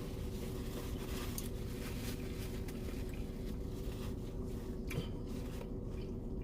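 A person chewing food, with soft rustling and a sharp click about five seconds in, over a steady low hum.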